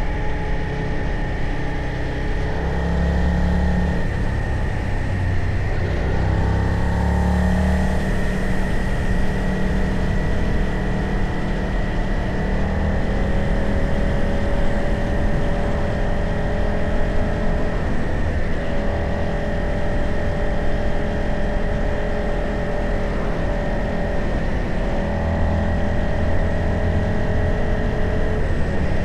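Motorcycle engine running under way, with a steady rumble and a constant high whine. The engine note shifts in pitch about six seconds in, again around eighteen seconds, and near the end.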